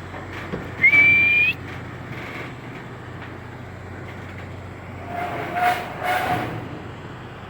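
A cattle handler's short whistle about a second in, one high tone that rises slightly just before it stops, used to drive cattle along, then a fainter drawn-out call near the end over a steady background noise.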